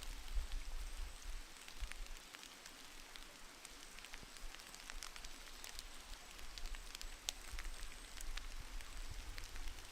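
Scattered light drips and ticks, irregular and faint, over a low rumble of wind on the microphone; typical of meltwater dripping from snowy trees.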